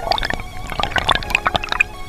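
Water splashing and dripping: a quick, irregular patter of small drops and splashes.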